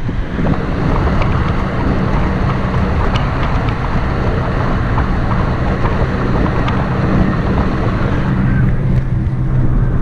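A car driving in the rain, heard from inside the cabin: a steady engine and road hum under a hiss of tyres and rain, with scattered light ticks. The hiss drops away about eight seconds in, leaving the hum.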